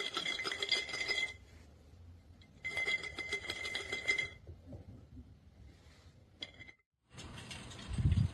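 Treat jar shaken, treats rattling and clinking inside it in two bouts of about a second and a half each. Near the end comes a single low thump.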